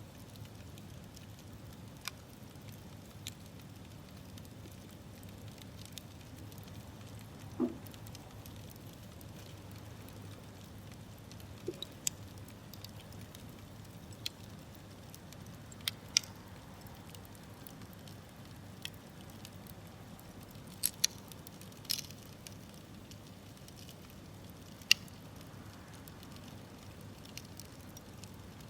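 Wood campfire crackling: irregular sharp pops and snaps, a few of them much louder, over a low steady rumble of burning. About eight seconds in there is a brief whistling sweep.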